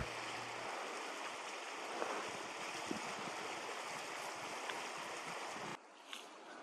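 Steady rushing of water, an even hiss of flow that stops abruptly near the end.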